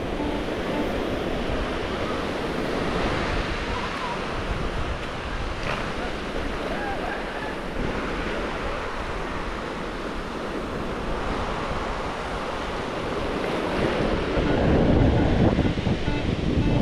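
Ocean surf washing up the beach, with wind buffeting the microphone; a wave surges in louder about three-quarters of the way through.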